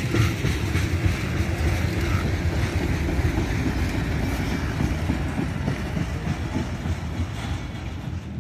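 Freight train cars rolling past, their wheels clacking over the rail joints, growing a little quieter near the end.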